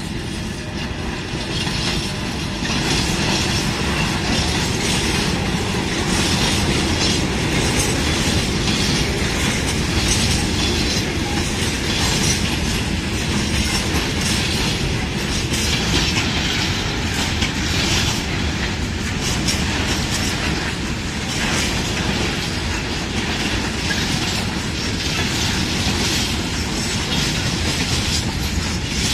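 A train running through a railway station: a continuous loud rumble of wheels on rails that swells about two seconds in and stays steady.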